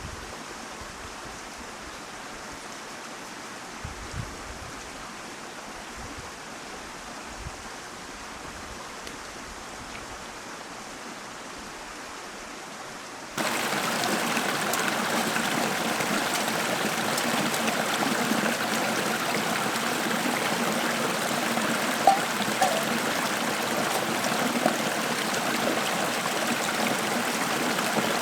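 Mountain stream water running steadily over rocks; about halfway through it jumps abruptly louder and brighter.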